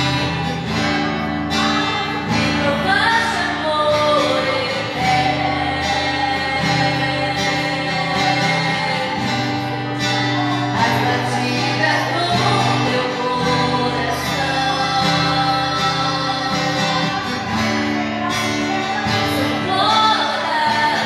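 Worship song: a singer over guitar and held bass notes.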